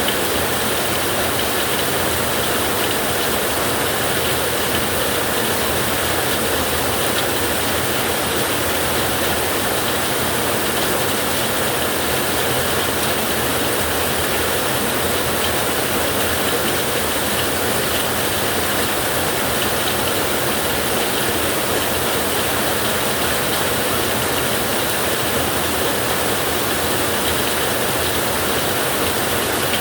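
Steady rain falling on a metal roof: an even, unbroken sound with no thunder cracks in this stretch.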